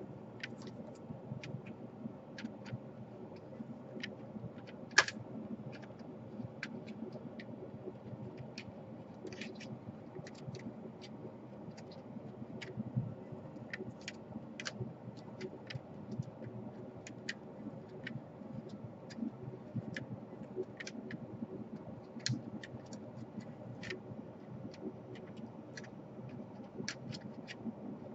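Scattered light clicks and taps of a laptop's casing, DC power jack and its wire being handled and fitted, with one sharper click about five seconds in, over a steady low hum.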